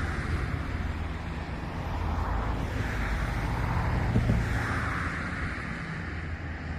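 Road traffic going by, a steady hum with a few cars swelling up and fading away one after another.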